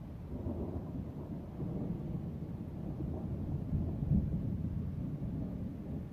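Thunder rumbling in a long, rolling peal that swells to its loudest about four seconds in.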